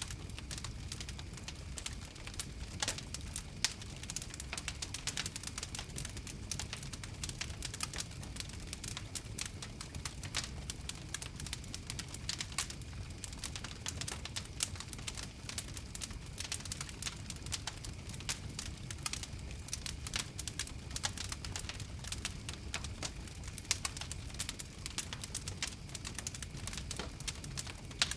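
Campfire crackling steadily: dense, irregular pops and snaps over a low rumble of the flames.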